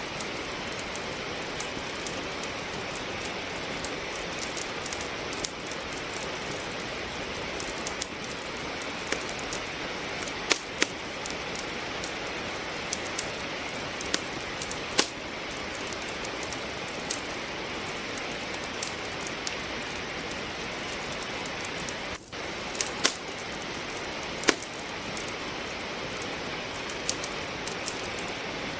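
Steady rain with a wood fire crackling over it: irregular sharp pops and snaps, a few of them louder, scattered through a constant rain hiss.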